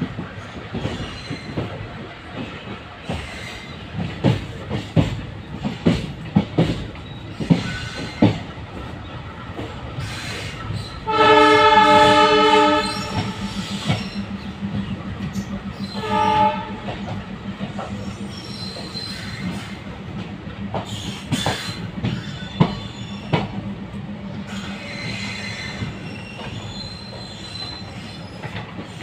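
Indian passenger train coach rolling slowly, its wheels clicking and knocking over rail joints and points. About 11 seconds in a train horn sounds loudly for about two seconds, with a shorter blast near 16 seconds, followed by a steady low hum as another train runs past on the next track.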